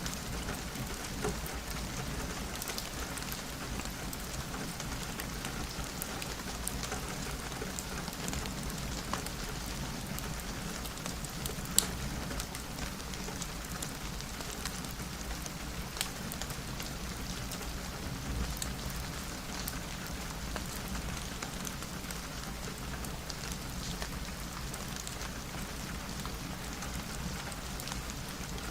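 Steady rain falling on a window, an even patter with scattered sharp clicks, one loud click about twelve seconds in and another about four seconds later.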